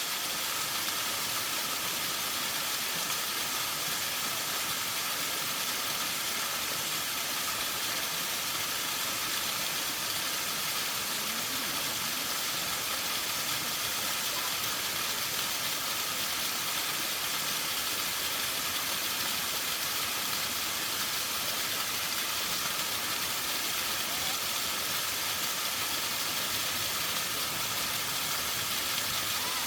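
Waterfall rushing and splashing in a steady, even hiss.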